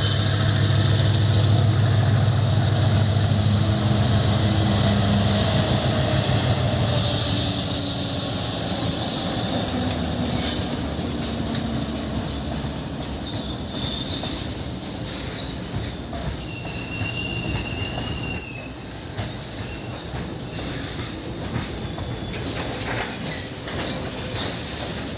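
Twin ALCo WDG3A diesel locomotives, 16-cylinder ALCo 251 engines, passing under power with a heavy low engine rumble for the first several seconds. Then the coaches follow with steady rolling noise, wheel clicks over rail joints and intermittent high-pitched wheel squeal, fading slowly.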